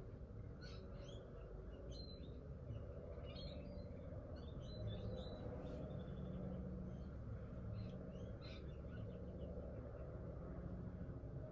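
Small birds chirping on and off in short, high calls over a steady low background hum.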